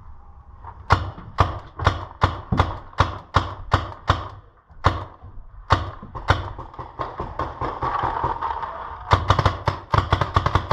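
Paintball marker firing shot after shot. The pops come about three a second at first, then a few slower single shots, then a rapid string of quick pops near the end.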